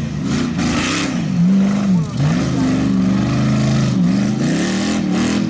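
Off-road race truck's engine revving hard and dropping back again and again, its pitch rising and falling about once a second as the throttle is worked, with brief bursts of hiss in between.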